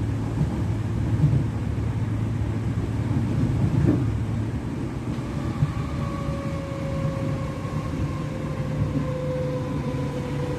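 Merseyrail Class 507 electric multiple unit running, heard from inside the carriage: a steady low rumble of wheels on the track with a single knock about four seconds in. From about halfway a faint whine comes in and slowly falls in pitch.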